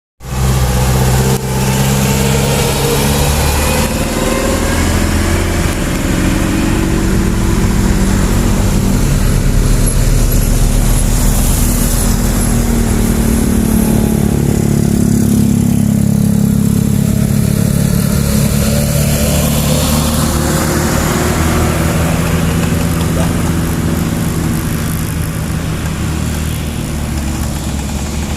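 Loaded truck's engine running hard on an uphill climb, its pitch stepping up and down several times.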